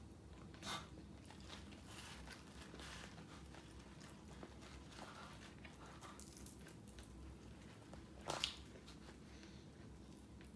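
Faint close-up chewing and crunching of crispy fried chicken skin as pieces are torn apart and eaten, with two louder crunches, one about a second in and one near the end.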